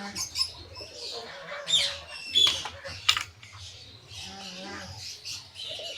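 Birds chirping and calling in short, scattered bursts, with a few sharp clicks and rattles, and a brief low call about four and a half seconds in.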